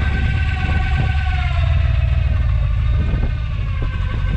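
Off-road truck engine held at high revs under load with a steady whine that sags slightly in pitch about a second in, over heavy wind rumble on the microphone.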